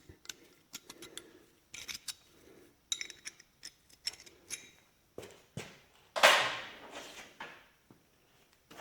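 Small steel parts and hand tools clinking and clicking on a workbench, with one louder hissing clatter about six seconds in that fades over about a second.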